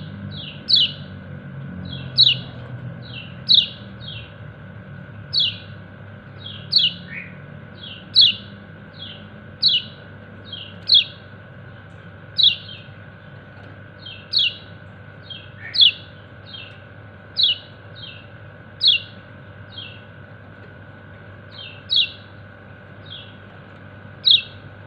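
Kecial kuning, a yellow-breasted white-eye, giving short, high, sharply falling 'ciak' calls, often in twos or threes, about once every second or so. These are contact calls to its companions. A steady low hum runs underneath.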